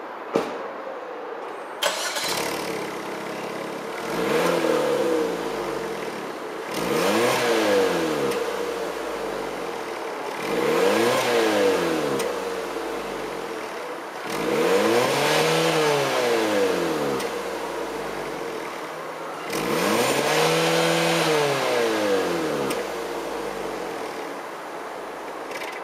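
Suzuki Swift ZC72S with its stock muffler, its 1.2-litre four-cylinder revved five times from idle: about 2000, 3000, 4000 rpm, then twice to 5000 rpm, each rev rising and falling back to idle. A sharp click about two seconds in, before the first rev.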